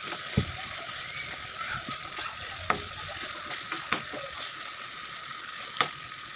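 Chicken pieces sizzling as they fry in a masala gravy in a wok, with a steady hiss. A metal spatula stirs the chicken and clinks sharply against the pan four times.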